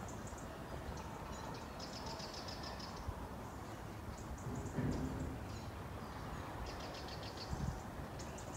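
Small birds chirping in short, high, rapid trills every second or two over a steady outdoor hiss. Two dull low thumps come about halfway through and again near the end.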